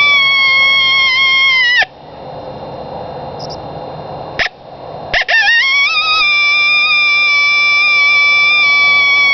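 A handmade reed-type cow horn coyote howler blown in long, high howls: one held steady that drops off at the end about two seconds in, then after a pause with two short clicks, another howl that rises quickly and holds steady to the end.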